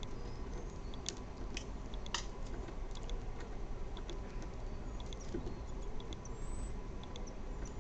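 Outdoor garden ambience: a steady low rumble and hiss, with scattered faint clicks and a few brief, faint high chirps.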